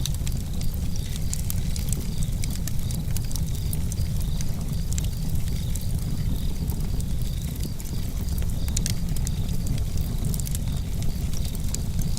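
Campfire crackling: sharp, irregular pops and snaps over a steady low rumble.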